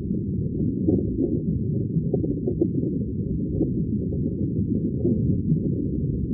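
Muffled, continuous bubbling of aquarium water, deep-sounding with small pops scattered through it.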